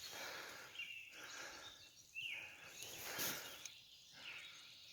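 Faint early-morning birdsong: a few short chirps from wild birds over a steady high outdoor hiss.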